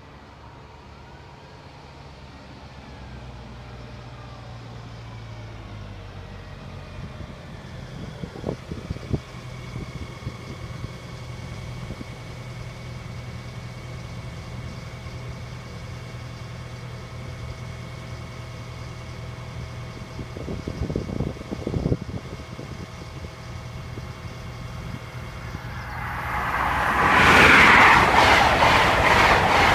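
A diesel high-speed passenger train with an InterCity 125-style power car approaches, its engine hum and rail noise building slowly. About 27 seconds in it passes close by, a loud rush and rattle of wheels on the rails.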